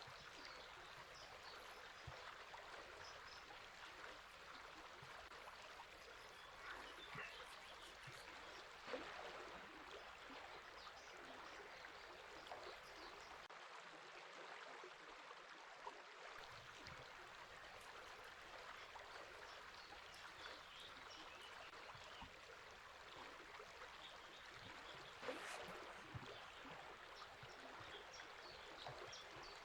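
River water flowing steadily with a soft rushing and trickling, faint small birds chirping now and then above it.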